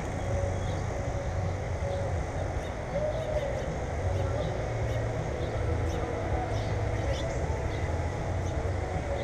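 Short, faint bird chirps scattered through a steady low rumble, with a few soft rising-and-falling calls in the middle range.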